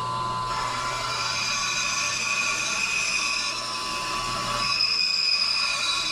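Bandsaw running and slowly resawing a wooden drawer piece with a narrow blade: a steady motor hum with a high whine from the cut coming in about half a second in.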